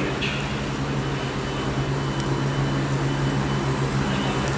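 Train standing at a platform, its engine or onboard equipment giving a steady low hum.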